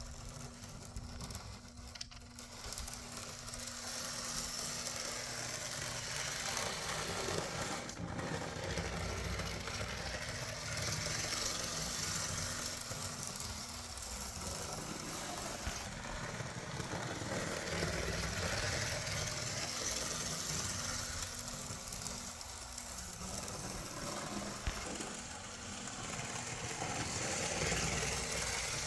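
Rokuhan Z scale model steam locomotive and tender running on track: the small electric motor whirs and the wheels rattle on the rails, with a steady faint hum, the level swelling and fading every few seconds.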